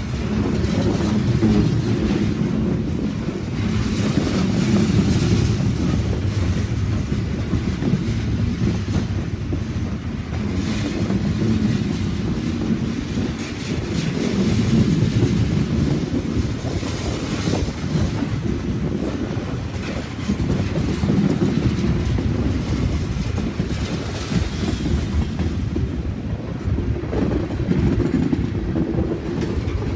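A train rolling past, its cars making a continuous, steady rumble on the rails.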